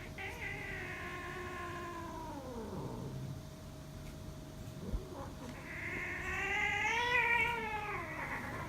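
Domestic cats caterwauling in a fight standoff: a long drawn-out yowl that sinks steadily in pitch to a low note, then after a short pause a louder yowl that rises and falls, with another beginning near the end.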